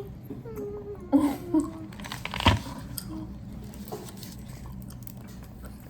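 Handling of a gum pack: a few small rustles and ticks with one sharp click about two and a half seconds in, after a short wordless voice sound, over a steady low hum.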